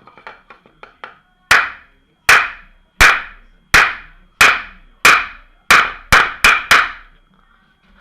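Hammer blows on a bicycle crank arm, knocking it firmly onto the axle to cure a creaking crank: a few light taps, then ten hard strikes, each with a short ring, coming faster near the end.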